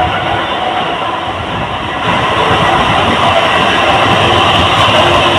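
Steady rumble and rattle of a moving train, heard from on board, loud throughout and growing a little louder about two seconds in.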